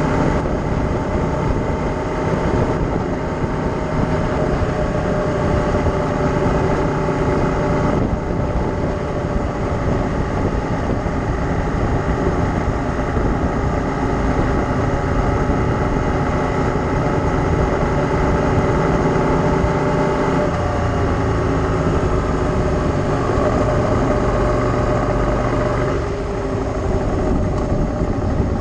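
A vehicle engine running steadily, its pitch shifting slightly about twenty seconds in and again near the end.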